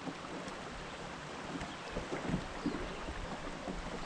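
Steady outdoor noise of wind on the microphone and flowing river water, with a few faint light knocks.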